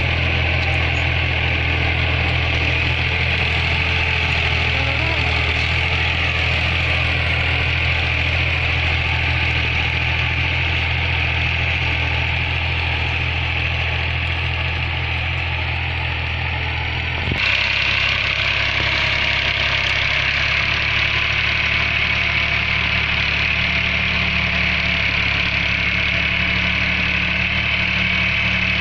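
Fiat 480 tractor's three-cylinder diesel engine idling steadily. The sound changes abruptly a little past halfway, with less low rumble and more high clatter after it.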